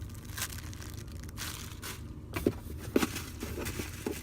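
Crinkling and rustling as squishy toys are handled, with a few short low blips between about two and four seconds in.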